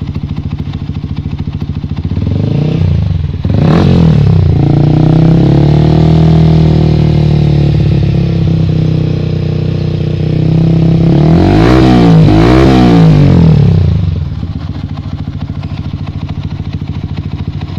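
Yamaha R15 V3's 155 cc single-cylinder engine through a Prospeed Black Series aftermarket exhaust, revved from idle: the throttle is opened a couple of seconds in and held at high revs for several seconds, eased, revved up and down again, then it drops back to a steady idle.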